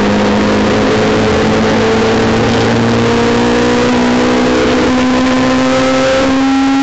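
Honda S2000's four-cylinder VTEC engine running at high revs under hard acceleration, heard from inside the cabin, its pitch rising steadily with a small jump up near the end.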